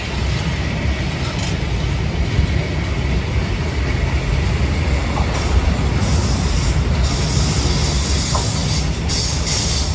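Container freight train of flat wagons passing close by: a steady rumble of steel wheels on the rails.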